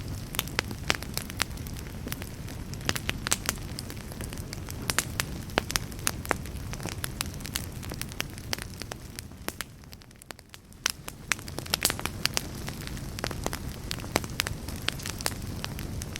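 Wood fire crackling in a fireplace: irregular sharp pops and snaps over a low, steady rumble of burning, easing briefly about ten seconds in before picking up again.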